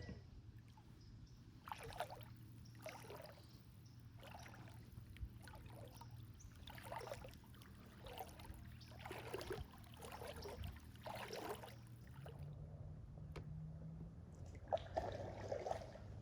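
Kayak paddles dipping into the river in a steady rhythm, a soft splash and drip about every second, over a faint low hum. There are a couple of light knocks near the end.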